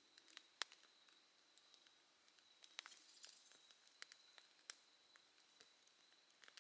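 Faint bonfire of bamboo crackling, with irregular sharp snaps and pops, one standing out about half a second in and a cluster near the middle. Behind it an insect sings one steady high note throughout.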